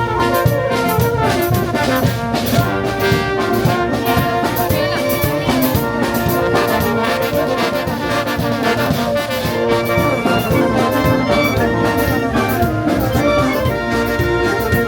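Peruvian brass band playing: trumpets and trombones carry a melody in held and moving notes over a steady drum beat.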